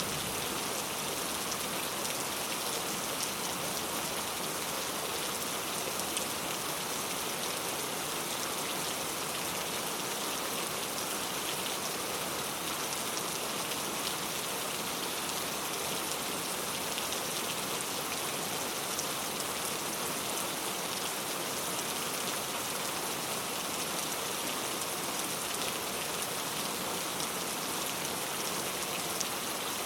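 Very heavy rain falling steadily, a dense even hiss of drops striking a surface with fine individual splats throughout.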